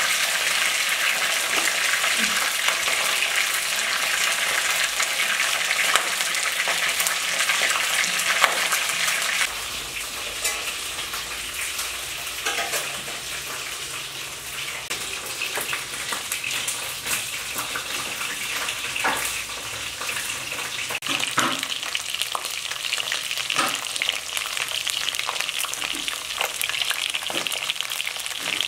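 Chicken feet frying in hot oil in a wok: a steady sizzle that drops a little in level about a third of the way in, then goes on with scattered sharp crackles and spits.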